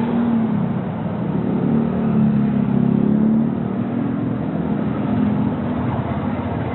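Single-cylinder engine of a Rouser NS125 FI motorcycle running under way, heard from the rider's seat with road and wind noise. The revs climb about a second and a half in, hold for a couple of seconds, then ease off.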